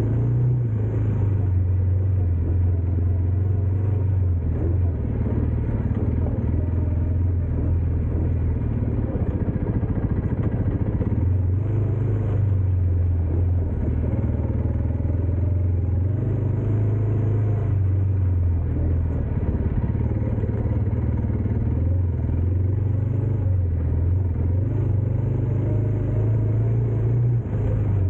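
Dirt bike engine running under way, its pitch rising and falling every few seconds as the throttle opens and closes on the rough ride.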